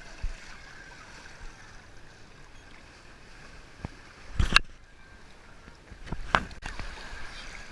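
Steady rushing-water background with two loud thumps, about halfway through and again nearly two seconds later.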